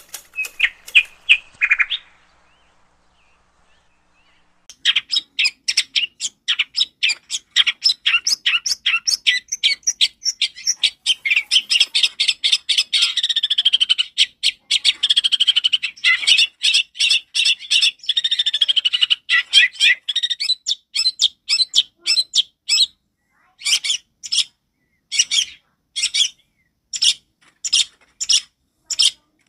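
Long-tailed shrike (cendet) singing loud and clear: a short call, a pause of about two seconds, then a fast run of sharp, clipped notes that thickens into a dense chattering warble in the middle and thins to spaced single notes, a couple a second, near the end.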